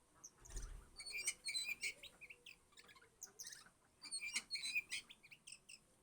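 Oriental magpie-robin (kacer) singing in two bursts of quick high chirps and trills, with a short low thump about half a second in.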